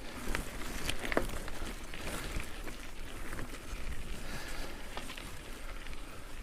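Mountain bike tyres crunching over a gravel forest track on a climb, with scattered clicks and rattles from the bike and the rider's heavy breathing.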